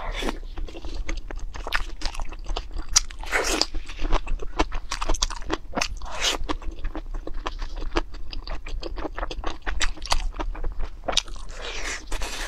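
Close-miked eating: many crisp crunches as food is bitten and chewed, with wet mouth sounds, irregular and continuous.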